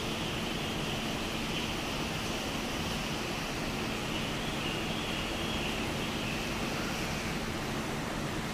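Steady rain falling, an even hiss at a constant level, with a faint steady hum underneath.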